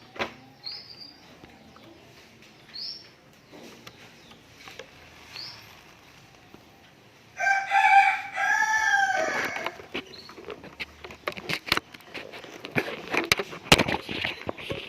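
Several short, high, rising chirps from a small songbird, typical of a pleci (Oriental white-eye). These are followed by the loudest sound, a rooster crowing once for about two and a half seconds. After it comes a long run of sharp clicks and rustles.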